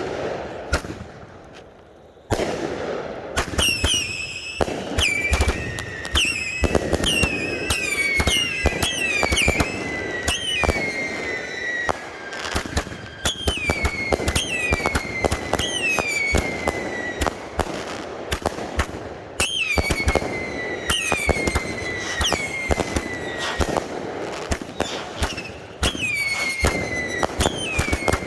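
A consumer fireworks cake firing at close range: rapid sharp shots and bangs, many of them carrying a whistle that falls in pitch. The barrage starts suddenly about two seconds in after a short near-quiet gap, then keeps up steadily.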